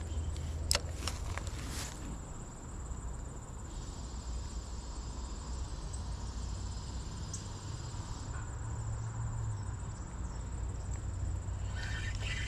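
Steady high-pitched insect chirring over a constant low rumble of highway traffic, with a sharp click about a second in.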